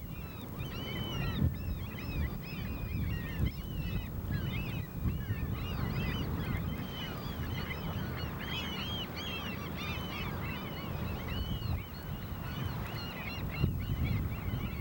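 A large flock of birds calling all at once: a continuous din of many short, overlapping calls, with a steady low rumble underneath.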